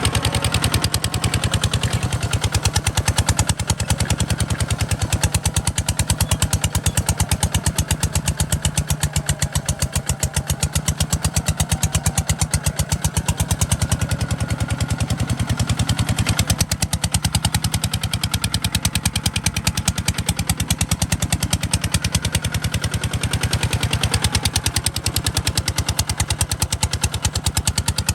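Kubota RT140 DI single-cylinder diesel engine running steadily, its exhaust beats coming as a fast, even train of sharp pulses.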